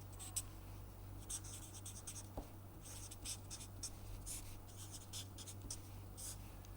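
Pen scratching on paper in short, irregular strokes, faint, over a steady low hum.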